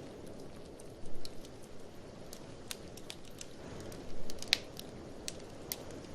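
Wood fire crackling in a fireplace: scattered sharp pops and snaps, the loudest about four and a half seconds in, over a low steady rumble of blizzard wind that swells briefly twice.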